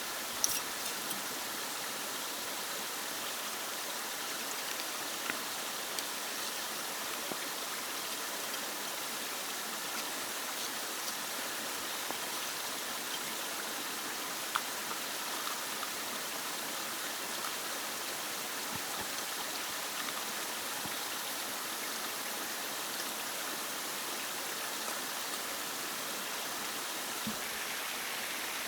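Steady rush of running water, with a few light clicks scattered through it.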